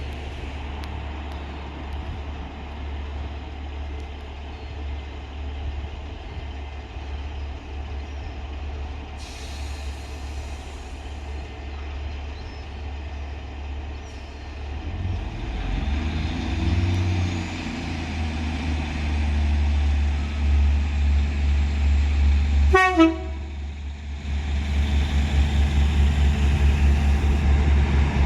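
Diesel multiple unit's engine running with a steady low throb that grows louder from about halfway, and one short horn toot near the end.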